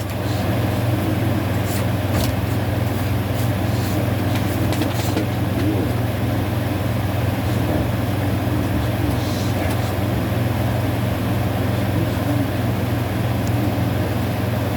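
A steady low hum with an even rushing noise over it, and a few light clicks about two seconds and four to five seconds in.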